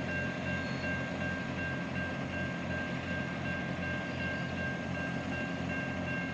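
Railway level crossing warning signals sounding, a steady high ringing tone, over a low, evenly pulsing engine rumble as a train approaches the crossing.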